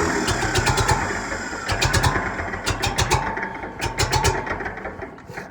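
Farmall M's four-cylinder engine firing unevenly on choke, its beats growing weaker until it dies out near the end. The owner wonders whether the engine doesn't want the choke.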